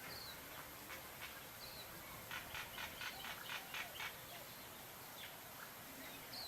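Small birds calling: a few short high chirps, then a quick run of about nine harsh, chattering notes about two seconds in.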